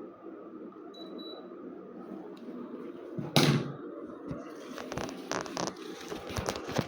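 A steady hum, then a loud thump about three seconds in, followed by a run of irregular clicks and knocks over a hiss.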